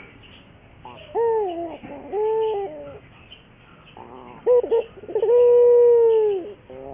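Domestic ringneck dove (puter) cooing: two short coos, then after a pause a quick stuttering start that runs into one long, drawn-out coo.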